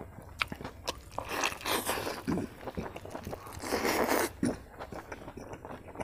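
A person chewing and crunching mouthfuls of omelet curry close to the microphone, with wet mouth clicks and smacks. The chewing gets louder for a moment about one and a half seconds in and again about four seconds in.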